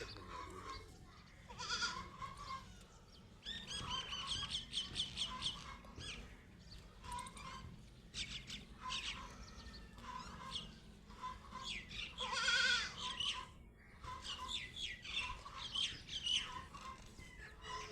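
Small birds chirping in repeated quick bursts of short, high notes; the loudest burst comes about twelve seconds in.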